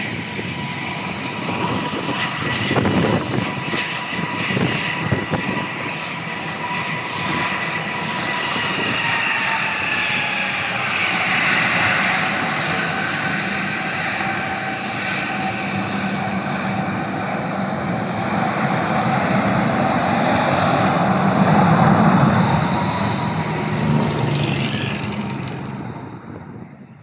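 Airliner engines running loud as the aircraft passes close by, a steady rush with a high whine that drops in pitch about ten seconds in. The sound fades away near the end.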